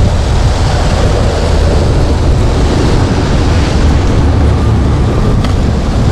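Steady, loud rushing noise of flowing creek water, with a heavy low rumble of wind buffeting the microphone.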